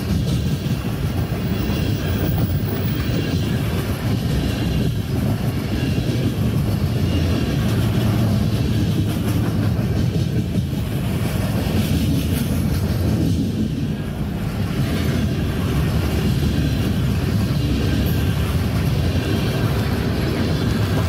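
Mixed freight train's tank cars, centerbeam lumber flatcars and boxcars rolling past, a steady low rumble of wheels on rail.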